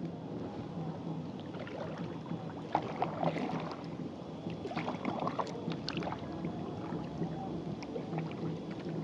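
Kayak paddle strokes splashing and dripping in lake water, with clusters of splashes about three seconds in and again about five seconds in.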